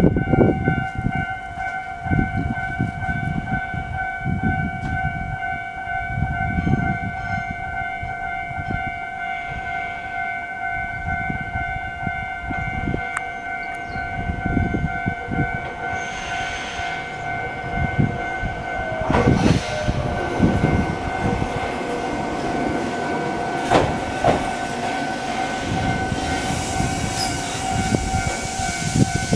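Level-crossing warning bell ringing steadily as a Gakunan Railway 7000-series single-car electric train approaches and pulls into the platform, its running noise growing louder over the last few seconds.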